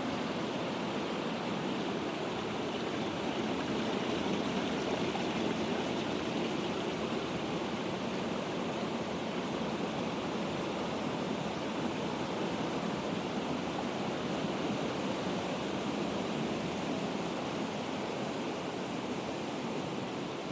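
Falling water from a waterfall, a steady even rush with no breaks.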